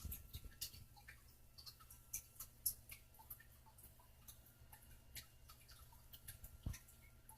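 Faint, irregular little clicks and ticks of a monk parakeet's beak nibbling and mouthing a finger in play, with a soft bump near the end.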